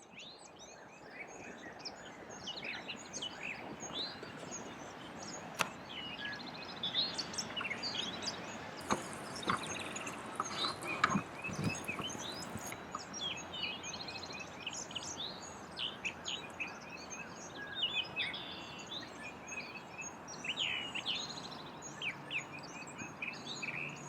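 Many birds chirping and calling at once over steady outdoor background noise, fading in at the start.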